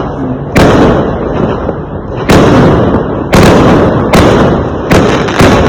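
Fireworks going off: six loud, sharp bangs at uneven intervals, each trailing off in a low rumble.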